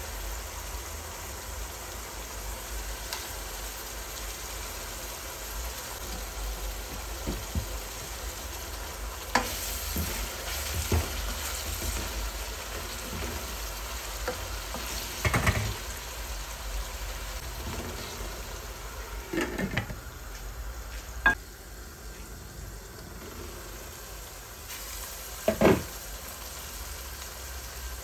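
Sliced onions and whole spices sizzling in hot oil in an aluminium pot, stirred with a wooden spatula that knocks sharply against the pot several times.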